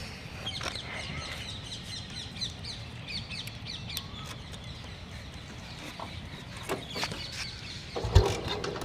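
Birds chirping and calling, many short quick notes, with one loud thump about eight seconds in.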